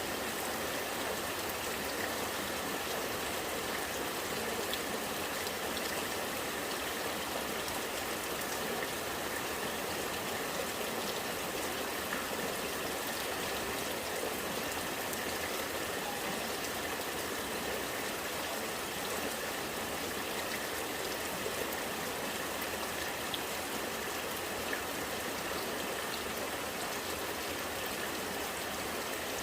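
Rainwater gurgling and trickling steadily, with rain pattering on surfaces.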